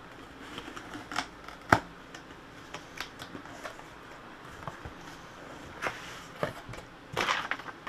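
Hands opening a cardboard shipping box and handling the packaging: scattered clicks, scrapes and rustles, with a sharp knock about two seconds in and louder crinkling near the end.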